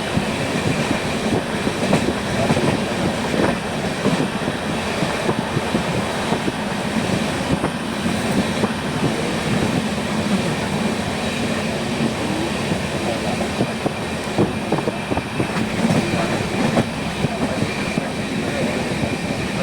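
Moving train's running noise: a steady rumble of wheels on rails with dense, rapid rattling clicks.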